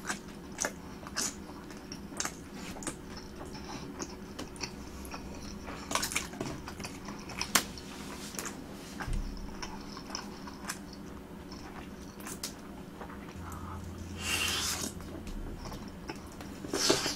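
Close-miked chewing of fried skewer snacks: irregular wet mouth clicks and smacks with soft crunchy bites, and a louder, longer bite about three quarters of the way through.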